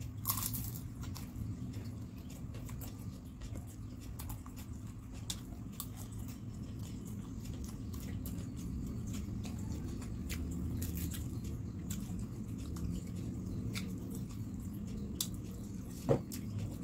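Close-up chewing of crispy fried gorengan snacks: a steady stream of small crunchy, wet mouth clicks over a low steady hum, with a sharper click near the end.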